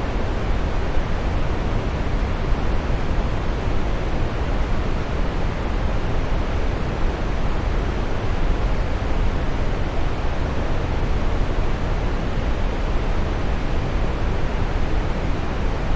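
Waterfall: a steady, dense rush of falling water with a deep low rumble, unchanging throughout.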